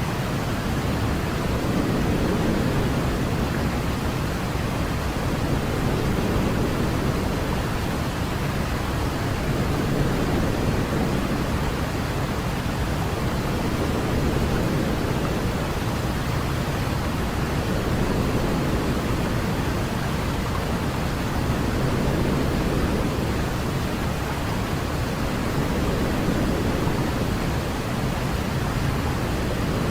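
Steady white-noise sleep sound for a baby, a smooth even hiss with most of its weight in the low end, swelling and easing gently every few seconds.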